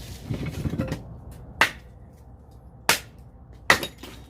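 Three sharp axe strikes splitting firewood, each a hard crack, a second or so apart.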